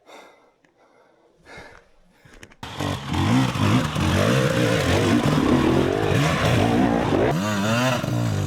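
Dirt bike engine running, cutting in abruptly a few seconds in after near quiet; near the end it is revved up and down repeatedly.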